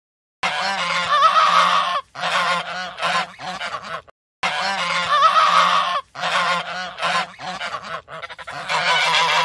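A flock of farmyard waterfowl calling loudly in many overlapping honks. The same stretch of calls plays twice, with a short break between, and then a different stretch follows.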